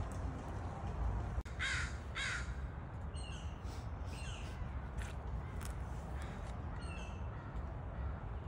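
Bird calling: two loud calls in quick succession about two seconds in, then several fainter calls, over a steady low rumble.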